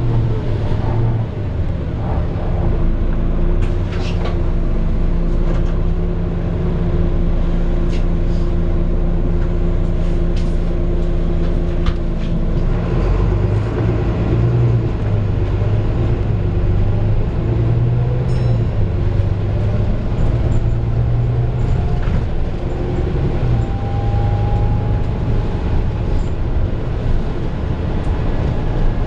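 Volvo B9TL double-decker bus heard from inside, its six-cylinder diesel engine running steadily under way, with short rattles and clicks from the body. A faint rising whine comes in about two-thirds of the way through.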